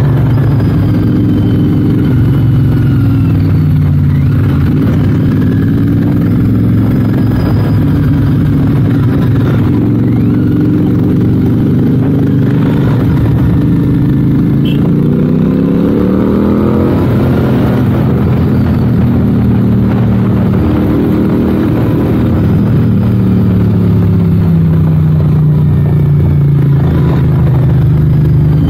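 Royal Enfield 650 twin's parallel-twin engine running while riding. Its pitch climbs for several seconds as it accelerates in the middle, then drops as the throttle eases, and rises again near the end.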